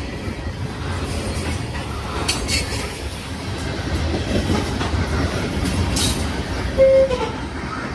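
Freight train rolling past: a steady low rumble with a few sharp clanks of wheels and cars, and a brief loud high tone about seven seconds in.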